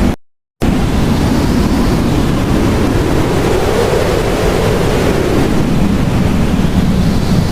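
Blizzard wind blowing steadily and hard, with a slow gust that swells and eases in the middle. The sound cuts out completely for a split second just after the start.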